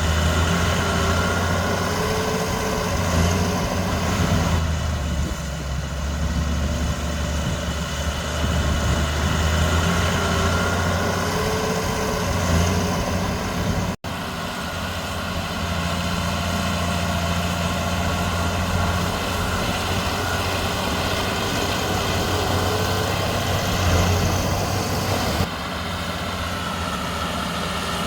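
Heavy diesel engines of a bulldozer and a dump truck running steadily as the bulldozer loads soil. The sound cuts out for an instant about halfway, and the level drops slightly near the end.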